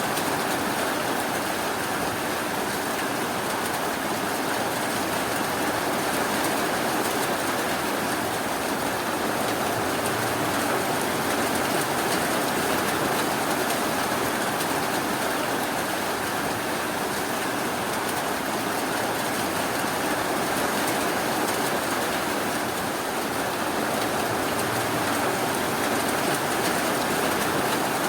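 Steady rainfall, a continuous even hiss that holds the same level throughout.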